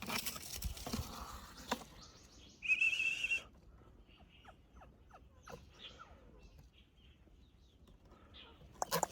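Small animal calls: a short, high, held squeal about three seconds in, followed by a string of short, faint, falling chirps. Rustling handling noise comes first.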